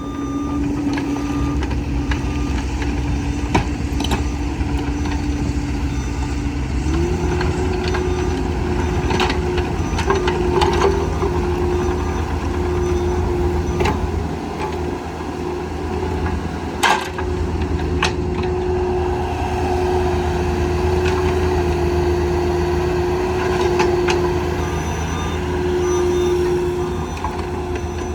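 Bobcat E26 compact excavator's diesel engine running steadily. About seven seconds in the engine speeds up to a higher pitch and holds there, with a few sharp knocks along the way.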